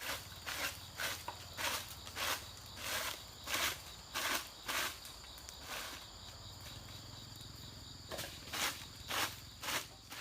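Footsteps, about one or two a second, pausing for a few seconds in the middle, over a steady high insect drone.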